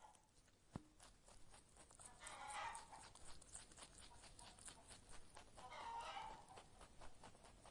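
Farm animals calling twice, each call about a second long, over a faint steady crackle of small clicks.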